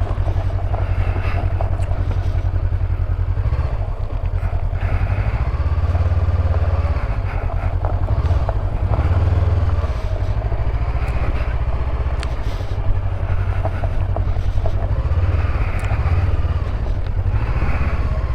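Motorcycle engine running while being ridden, with a steady low rumble. The revs rise and fall several times as the bike speeds up and the gears change.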